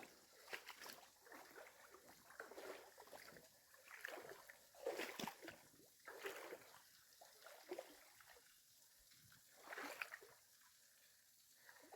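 Faint, irregular splashing and sloshing of water, in separate bursts every second or so.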